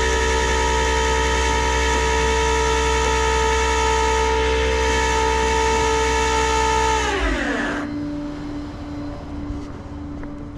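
A machine's steady, many-pitched whine that winds down in pitch about seven seconds in and dies away, leaving a lower steady hum.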